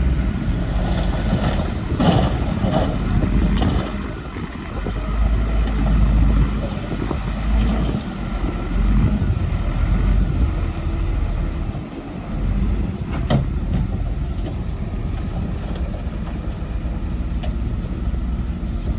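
Heavy diesel earthmoving machine running and working, its low engine rumble rising and falling with the load, with a few sharp metallic clanks, one about two seconds in and another past the middle.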